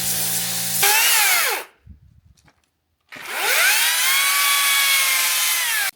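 A pressure washer hisses with a steady low hum for under a second, then stops. A small electric power tool then whines, its pitch falling as it winds down, and after a short gap it spins up to speed again, runs steadily for about three seconds and cuts off suddenly.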